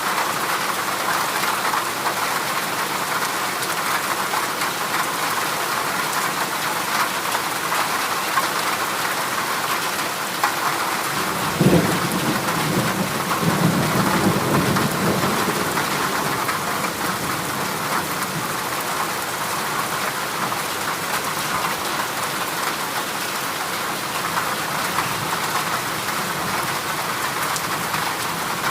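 Heavy rain falling steadily on a corrugated zinc sheet roof. About twelve seconds in comes a sudden low boom that rumbles on for a few seconds.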